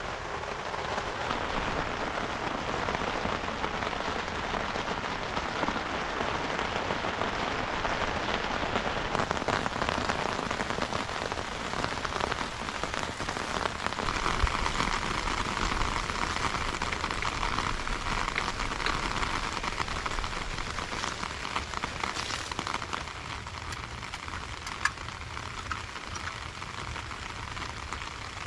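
Rain falling steadily, a dense even patter that eases off somewhat in the last several seconds.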